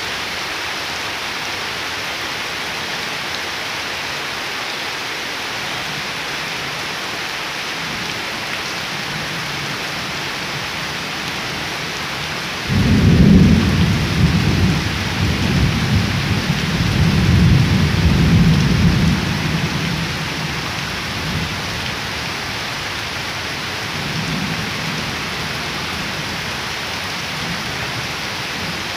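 Heavy rain falling steadily on waterlogged ground and leaves, a constant hiss. About halfway through, thunder rumbles in suddenly, low and loud, and dies away over several seconds, with a fainter rumble a little later.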